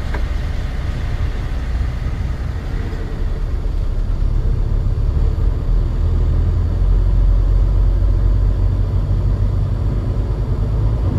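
Truck running down the road: a steady low engine and road rumble that grows louder about halfway through.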